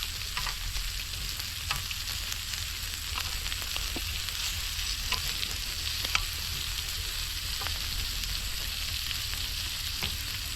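Pork belly frying in a hot pan: a steady sizzle with irregular sharp pops of spattering fat, roughly one a second.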